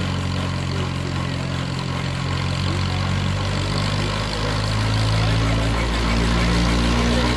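The engine of a homemade helicopter running steadily. It grows slightly louder about five seconds in.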